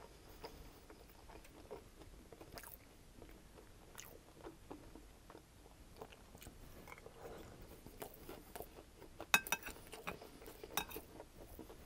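Close-miked chewing of crispy chicken fried rice: faint, soft mouth sounds with small crunches. A little past nine seconds in, a short cluster of sharp clicks as the metal spoon scrapes the glass bowl.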